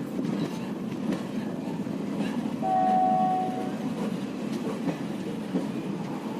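Passenger train running on the track, a steady rumble with wheel clatter over the rails. About three seconds in, a train horn sounds one blast of about a second, two notes together.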